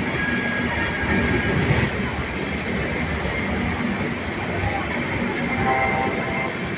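Passenger train rolling alongside a station platform, a steady rumble of coaches on the rails, with a faint metallic squeal about six seconds in.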